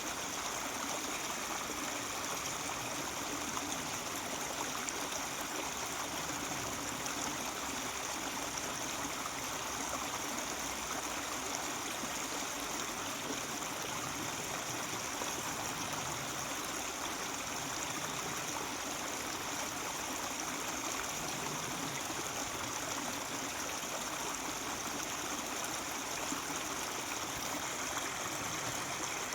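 Mountain stream flowing and babbling steadily, an even rush of water with no breaks.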